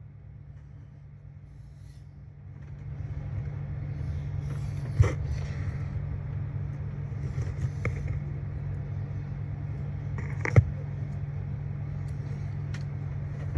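A steady low mechanical hum that gets louder about three seconds in, with a few sharp clicks or taps over it, the loudest two near the middle and toward the end.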